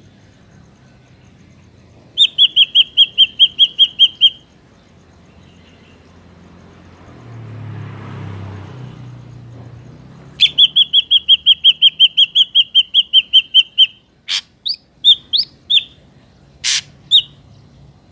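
Ashy drongo calling: two fast runs of identical sharp notes, about six a second, then several separate whistled and clicking calls near the end. A fainter low rumble swells and fades in the middle.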